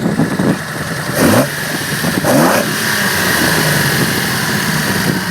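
Nissan L30 straight-six on triple Mikuni 44PHH carburettors revving up sharply twice, about one and two seconds in, then running at a steady note under way.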